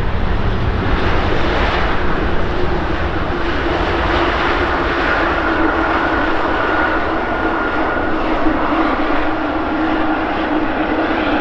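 Jet engine noise from a Korean Air Cargo Boeing 777 freighter's twin GE90 turbofans as it arrives: a steady loud roar with a low and a high whine that come through more clearly from about four seconds in.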